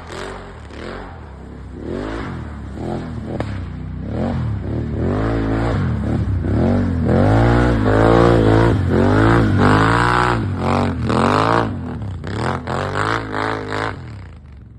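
Can-Am Outlander XT-P 1000 ATV's V-twin engine through a Yoshimura aftermarket exhaust, revving up and down over and over. It is loudest through the middle and eases off near the end.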